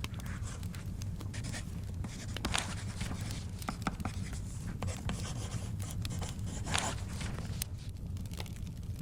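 Wood fire crackling, with frequent sharp pops over a low steady rumble, and book pages rustling as they are turned.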